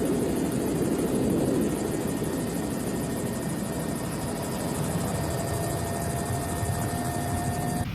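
Helicopter flying close by, its rotor and turbine running steadily with a rapid even chop, until the sound cuts off abruptly near the end.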